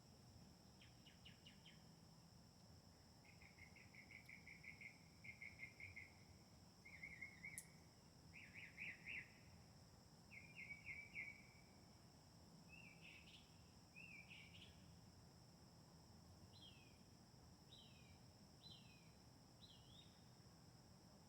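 A songbird singing faintly, a series of phrases of fast repeated trilled notes followed by several single down-slurred whistles, over a steady high-pitched insect drone.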